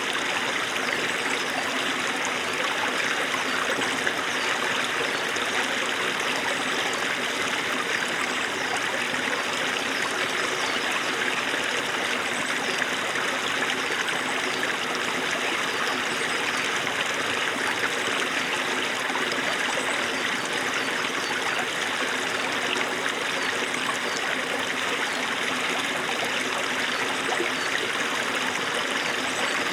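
Small stream of snowmelt running, a steady babbling rush of water with no breaks or changes.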